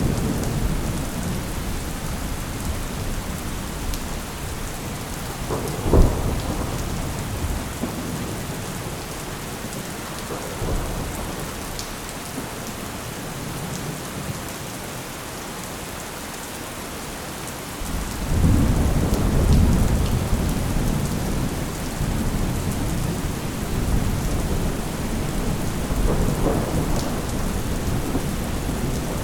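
Steady rain with thunder: a sharp crack about six seconds in, then a long low rumble rolling in at around eighteen seconds and another, smaller one near the end.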